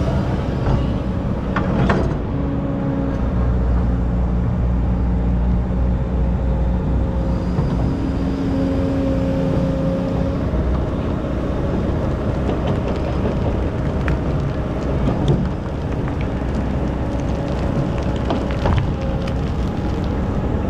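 Excavator's diesel engine running steadily under load while digging sand, with a whine that steps up and down in pitch as the machine works. A few sharp knocks stand out, the loudest about two seconds in and again past the middle.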